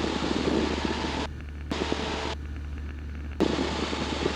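Steady engine and propeller drone inside the cabin of a Cessna 172 Skyhawk in flight, heard as an even rushing noise over a low hum. Twice in the middle it abruptly drops to a much quieter, duller level before coming back.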